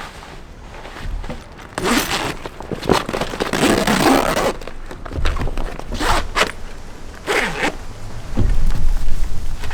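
A zipper being pulled in several rasping strokes, one long pull about three seconds in and shorter ones later. Near the end come louder, low thumping handling noises.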